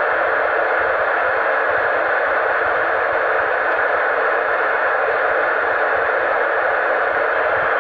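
Steady hiss of FM radio static from a 2-metre VHF amateur transceiver, with no signal coming in between transmissions on the repeater channel.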